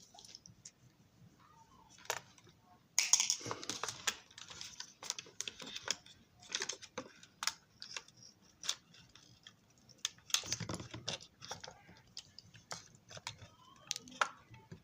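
Small screwdriver clicking and scraping against the screws and plastic body of a model railroad car as stubborn interior screws are worked out: irregular light clicks and taps, busiest about three seconds in and again about ten seconds in.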